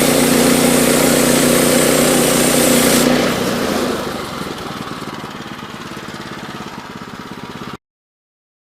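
Small gasoline engine of a Woodland Mills HM122 sawmill running steadily at working speed, then about three seconds in dropping to a quieter, pulsing low idle. The sound cuts off suddenly near the end.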